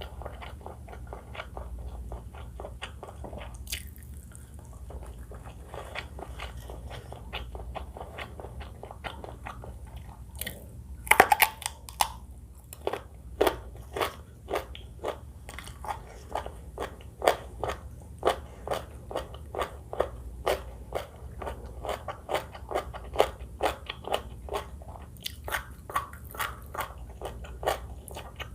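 Close-miked eating of rice noodles with green curry chicken, eggplant and crispy fried chili: crunchy biting and chewing. A burst of loud crunches comes about eleven seconds in, followed by steady chewing at about two strokes a second.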